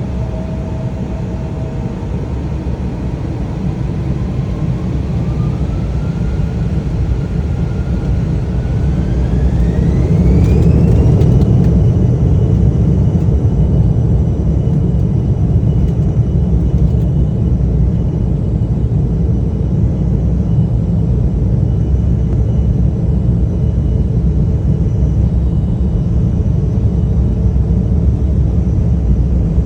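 Embraer E175's two GE CF34 turbofan engines spooling up to takeoff thrust, a whine rising in pitch over several seconds and then holding steady over a loud, constant rumble of the takeoff roll.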